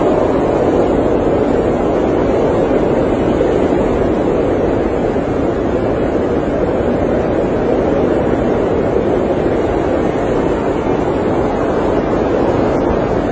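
Blizzard wind blowing steadily, an even rush of noise with no gusts or breaks.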